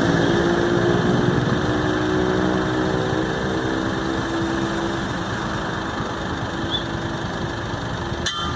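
A motor vehicle's engine running steadily, its tone fading after about five seconds, with one sharp click near the end.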